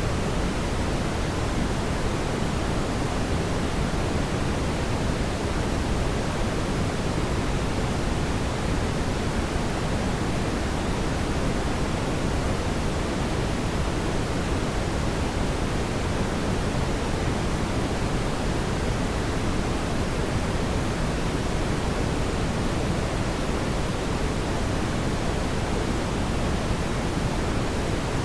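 Steady, even rushing noise, heavier in the low end, with no crackles or pops.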